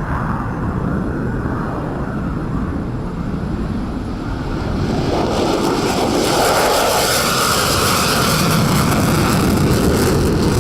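Jet engine noise of an F-35A Lightning II's single Pratt & Whitney F135 turbofan, a steady rushing roar that swells louder and brighter about halfway through as the jet powers up or comes closer.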